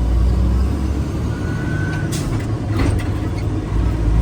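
Semi-truck diesel engine running as it is shifted up through a 10-speed gearbox, the engine note dipping and picking up again between gears about two seconds in and near the end, with a couple of brief hisses.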